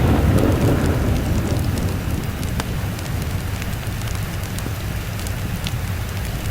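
Steady rain with a roll of thunder that fades away over the first two seconds, over a low rumble. Sharp crackles, like a wood fire's, are scattered throughout.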